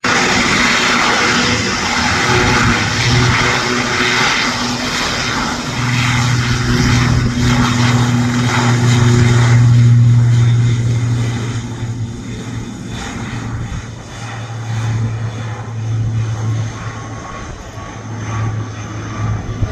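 Airbus C-295W turboprop at takeoff power: a loud propeller drone with a steady low hum over broad engine noise, building to a peak about halfway through, then fading as the aircraft moves away.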